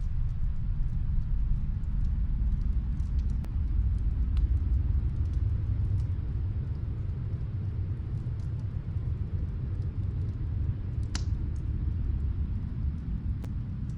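Snowstorm wind as a steady low rumble, with the faint, sparse crackle of a wood fire from another room; one louder pop about eleven seconds in.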